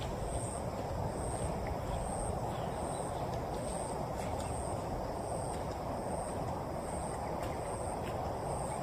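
Steady hiss of rain, with a high insect chirping evenly about twice a second over it.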